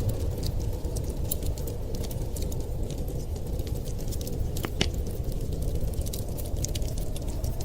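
Wood fire crackling, with scattered sharp snaps and a louder pop a little under five seconds in, over a steady low rumbling hiss.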